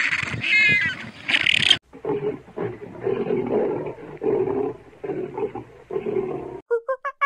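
A string of animal calls from different animals: a loud squealing call that cuts off about two seconds in, then rough, bursty growling or grunting calls, and near the end a fast run of short pulsed calls, several a second.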